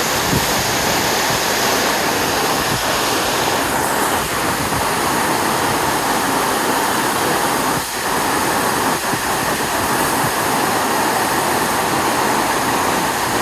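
Waterfall, water falling and rushing in a steady, loud wash of noise, with a brief dip about eight seconds in.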